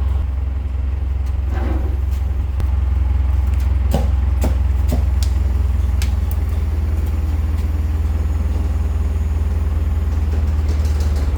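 An engine running steadily at idle, with a few sharp knocks about four to six seconds in.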